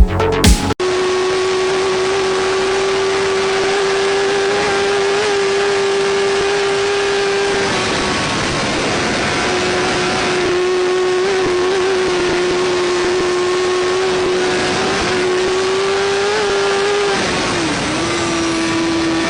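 Motorcycle engine held at steady high revs, a constant high-pitched drone. It eases off briefly around the middle and dips in pitch for a moment near the end.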